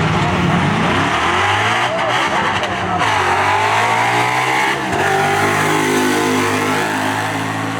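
A turbocharged Toyota Supra and a Ford Mustang launching and accelerating hard down a drag strip. The engines rise in pitch through the gears, with gear changes about three and five seconds in.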